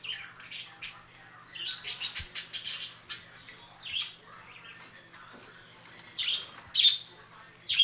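Pet budgerigars chirping and calling in short, sharp bursts, busiest about two to three seconds in.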